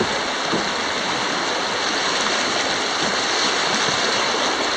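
Whitewater rapid rushing steadily, an even, unbroken wash of moving water.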